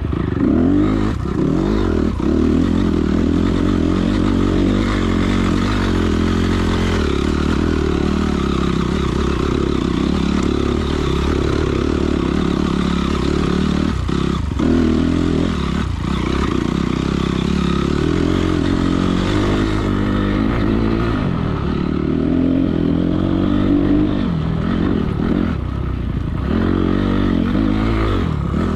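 Honda CRF250R dirt bike's single-cylinder four-stroke engine running steadily while being ridden off-road, its note shifting with the throttle, with some clattering from the bike over rough ground.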